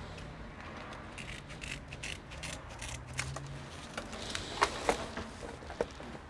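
Light clicks and taps of small parts and tools being handled during a computer repair, the sharpest three coming between about four and a half and six seconds in.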